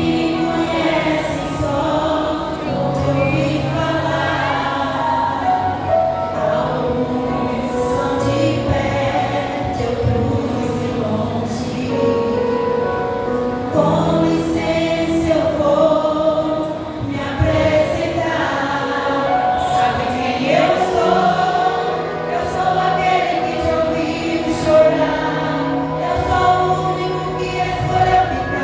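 Vocal group singing a gospel song in harmony, several voices holding and changing notes together without a break.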